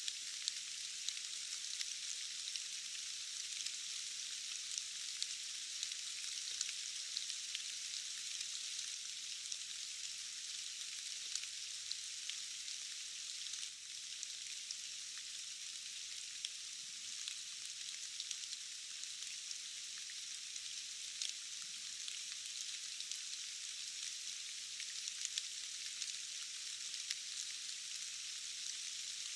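Steady rain: an even hiss with many small, sharp drop ticks scattered through it and no low rumble, dipping briefly about halfway through.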